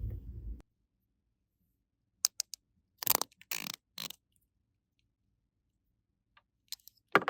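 Small objects being handled: a few quick light clicks about two seconds in, then three short scraping sounds about a second later, with dead silence between them.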